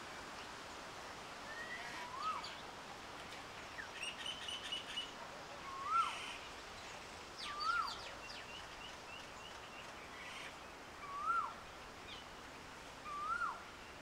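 Birds calling over a steady outdoor hiss: one bird repeats a short whistled note that rises then drops, five times about two seconds apart. Another gives two quick runs of high, short notes.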